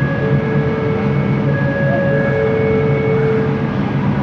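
Bombardier Innovia ART 200 train running, heard from inside the car: a steady low running rumble with a motor whine on top. The whine is several flat tones that cut in and out in steps over the first three seconds or so.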